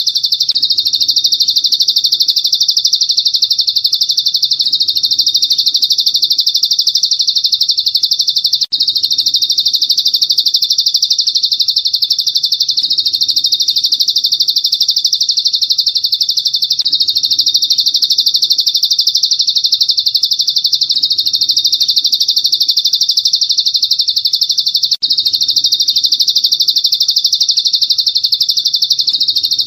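Dense, unbroken high-pitched songbird chirping and twittering, a masteran tutor recording of bird song for training caged songbirds; it cuts out for an instant twice, like loop joins.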